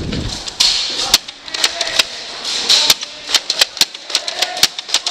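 Nerf dart blasters firing during a firefight: an irregular run of sharp snaps and clicks, a dozen or more, some in quick clusters.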